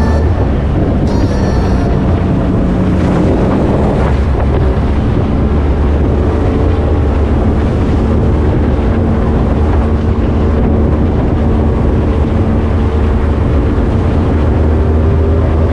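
Powerboat engines running hard at a steady speed, a loud low drone, with wind buffeting the microphone.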